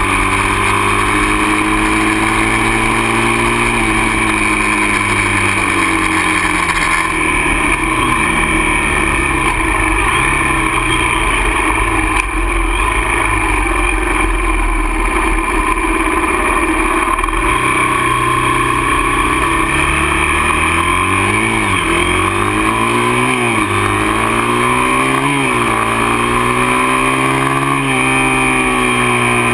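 Dirt bike engine running while ridden, the revs swinging up and down with throttle and gear changes. It holds fairly steady for the first few seconds and again in the middle, with quicker rises and drops a third of the way in and again over the last third.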